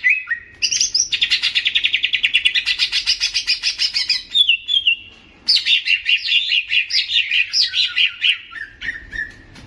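Cucak ijo (green leafbird) singing: a long, fast trill of rapid high notes, then after a short pause a second phrase of quick notes that step downward in pitch.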